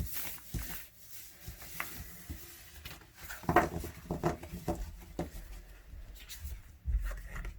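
Moonology oracle cards being shuffled and handled: soft papery rubbing with light taps and clicks, busiest about halfway through.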